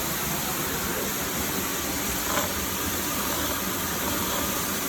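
Steady rushing roar of a waterfall, an even wash of falling water with no break.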